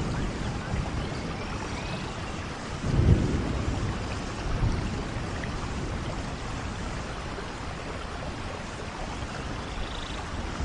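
Steady rain with thunder rumbling: a low roll peaks about three seconds in and a smaller one follows a second and a half later.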